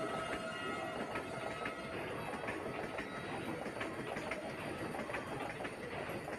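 Vande Bharat Express electric trainset running past, its wheels clicking over the rail joints over a steady rumble. The tail of its horn fades out in the first half second.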